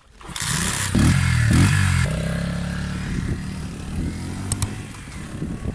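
Motorcycle engine blipped twice about a second in, its pitch rising quickly each time, then running steadily.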